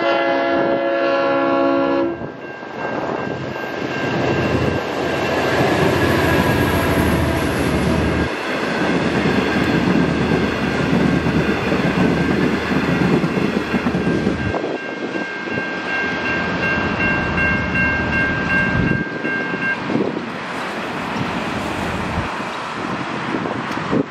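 A V/Line VLocity diesel railcar sounds its horn for about two seconds. It then rumbles across the crossing for about sixteen seconds. All the while the crossing's Safetran Type 3 electronic bells ring steadily, and they cut off about twenty seconds in once the train has cleared.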